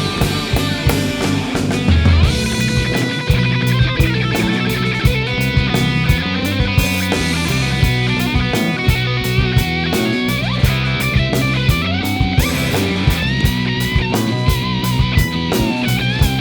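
Instrumental rock passage with no singing: guitar over low bass notes and a steady drum beat.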